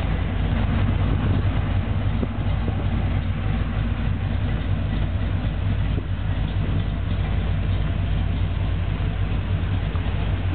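Corvette's built 350 small-block V8 idling steadily.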